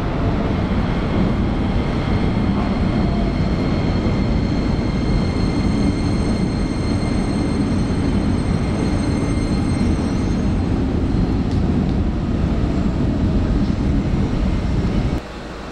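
Electric commuter train running past at a station platform: steady rumble of wheels and motors with faint high steady whines. The sound drops off abruptly near the end.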